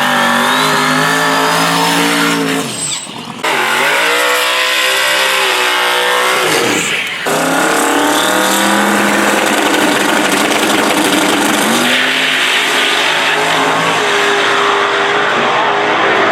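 Drag racing car engine revving at high rpm, its pitch dropping sharply and climbing back twice, about three and seven seconds in, with tire squeal.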